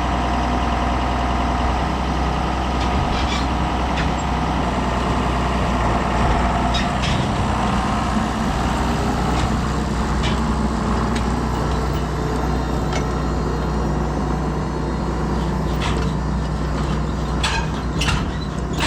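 Tractor engine running steadily, with scattered sharp clanks and knocks.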